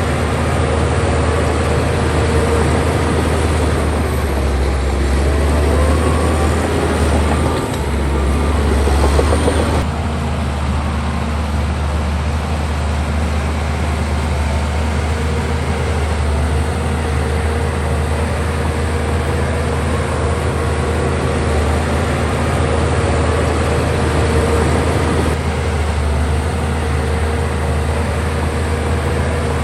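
Heavy diesel engine of earthmoving machinery running with a steady low drone, changing abruptly about ten seconds in.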